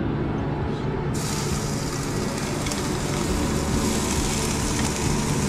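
Hot oil in a wok starting to sizzle about a second in as chopped chilies are spooned in, then frying steadily. A steady low hum runs underneath.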